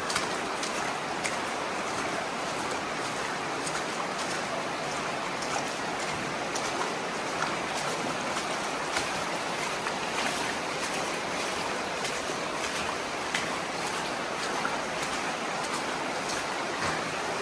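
Steady rush of heavy running water, a swollen rain-fed creek pouring through, with scattered sharp ticks of falling drops.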